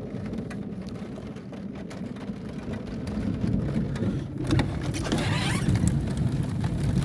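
Heavy rain falling steadily, with a low rumble underneath that grows louder through the second half and a brief rising hiss about two-thirds of the way in.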